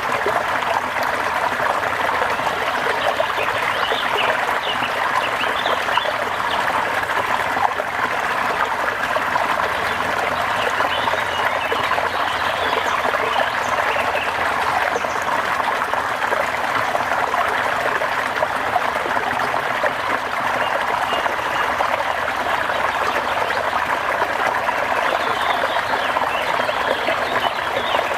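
Steady rain, a continuous even patter and trickle of falling water.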